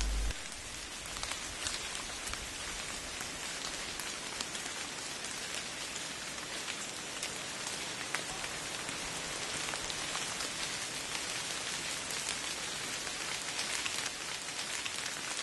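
Steady rainfall pattering on rainforest foliage, a constant hiss with scattered individual drops ticking through it.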